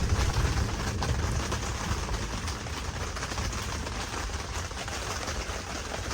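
Steady rain falling, an even wash of noise without breaks.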